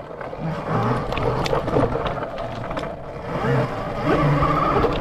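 Motorbike engine running, its pitch rising and falling with the throttle as the bike is ridden, louder near the end.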